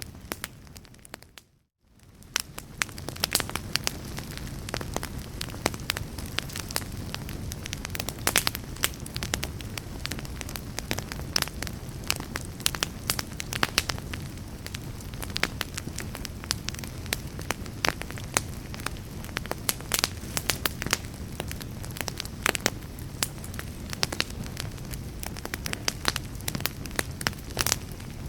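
Wood fire in a fireplace crackling, with frequent sharp pops and snaps over a steady low rumble of the flames. About a second and a half in, the sound briefly drops out and then fades back in.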